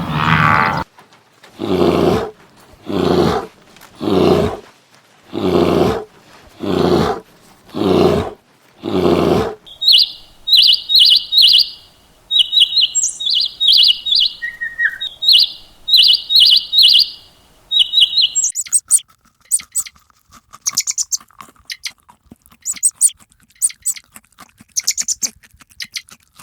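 An animal calling eight times in a row, about once a second, each call short and pitched. Then small birds chirping in quick high runs, giving way to rapid, very high ticking chirps.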